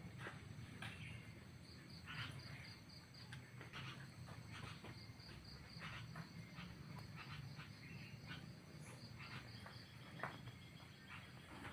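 Faint ambient sound: a low steady hum with scattered soft clicks and a thin, pulsing high chirping of insects.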